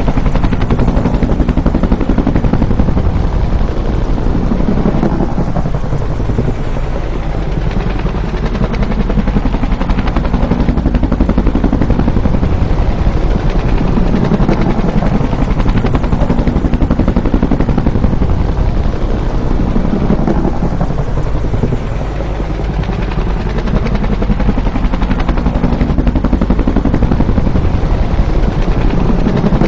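Bell UH-1 Huey helicopter, its two-bladed main rotor beating loudly and steadily, with the sound easing off a little twice, about a third and three quarters of the way through.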